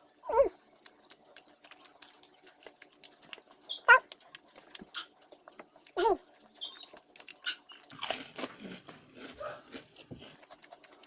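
A dog giving three short yelping barks a few seconds apart, with faint small clicks between them.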